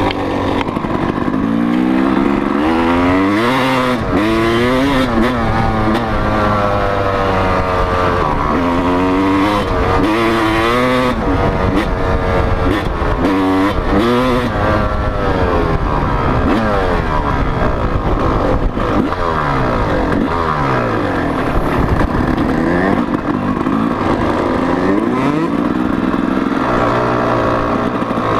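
Motocross dirt bike engines revving, the pitch climbing and falling away again and again, at times two bikes heard at once.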